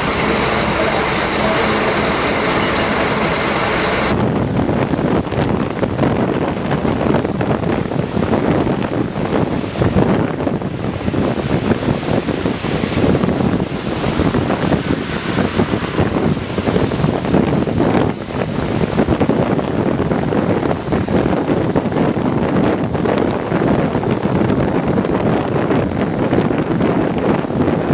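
Moving Scania K410IB double-decker bus: a steady rumble of engine, road and wind noise, buffeting the microphone. About four seconds in, the sound changes abruptly from a bright hiss to a rougher, lower rumble.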